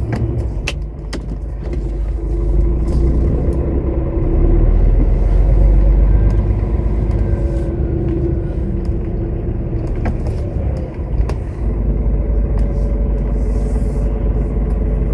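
Car-transporter lorry's diesel engine running as it drives slowly across a yard, a steady low rumble that grows louder about four seconds in and eases briefly near eleven seconds.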